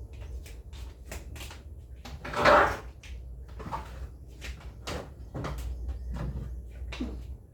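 Kitchen items being handled: a run of light clicks and knocks, with one louder clatter about two and a half seconds in, like a cupboard or fridge compartment being opened or things being set down.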